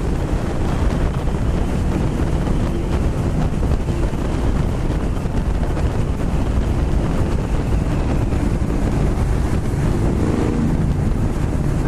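Heavy wind rush on the microphone of a motorcycle being ridden at speed, with the engine running steadily underneath.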